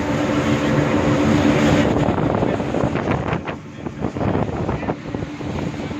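An engine running steadily, then about two seconds in a change to gusty wind buffeting the microphone, rising and dipping unevenly.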